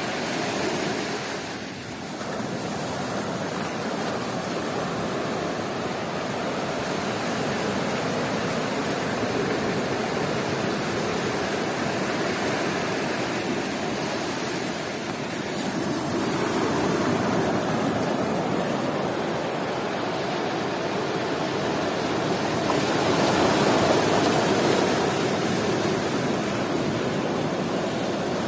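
Sea waves breaking and washing up a beach in a steady roar of surf, swelling louder twice as bigger waves come in, the second about 23 seconds in.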